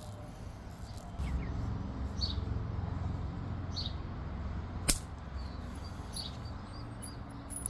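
A single sharp click about five seconds in as a flake snaps off an obsidian bird point being knapped; the flake broke off in a hinge fracture. Birds chirp faintly now and then.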